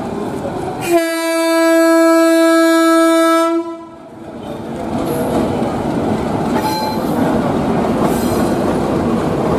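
Diesel locomotive's horn sounding one long blast, starting about a second in and lasting about two and a half seconds. After it come the steady noise of the locomotive and passenger coaches running past on the rails.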